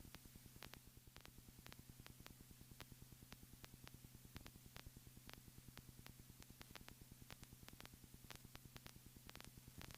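Near silence: a faint steady electrical hum with rapid, faint, regular ticking, on the aircraft's intercom audio between radio calls.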